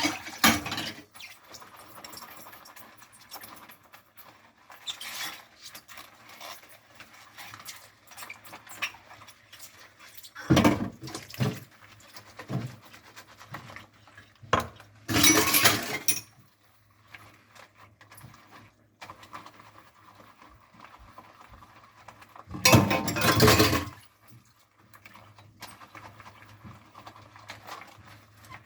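Dishes being washed by hand at a kitchen sink: quiet scrubbing with a natural loofah scrubber and soft clinks of dishes, broken three times by a short burst of running tap water.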